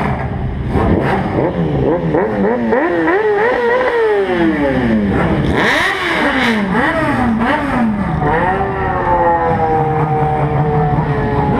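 Sport motorcycle engine revving hard: the pitch climbs in quick steps, drops away about four seconds in, climbs and wavers again, then settles into a steady, slowly falling tone as the bike cruises.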